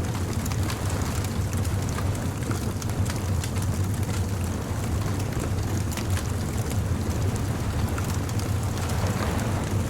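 Beach bonfire ambience: a wood fire crackling with scattered sharp pops over a steady low rumble of surf, the wash of noise swelling near the end.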